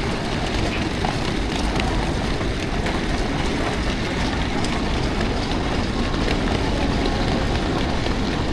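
Steady rumbling noise of a train at a railway station platform.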